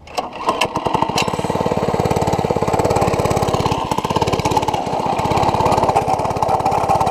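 An 80cc mini bike's small single-cylinder engine runs steadily with an even, rapid firing beat, starting abruptly right at the beginning, with a few sharp clicks in the first second. The engine runs while the rear wheel stays locked, which the rider suspects is caused by mud in the clutch.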